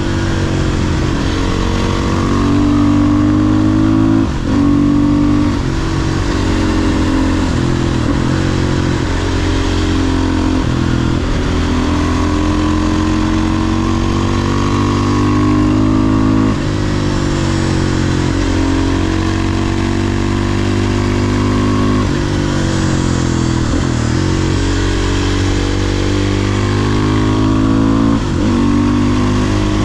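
500cc single-cylinder supermoto engine pulling hard through the gears, its pitch climbing and falling again and again, with brief dips at each gear change every few seconds.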